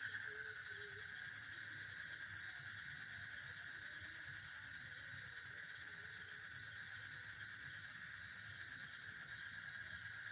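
Faint, steady chorus of trilling insects, crickets or similar, a continuous high-pitched trill that keeps on without a break.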